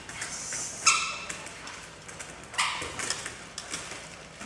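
Puppy giving two short, high yips during play, about a second in and again shortly before the middle.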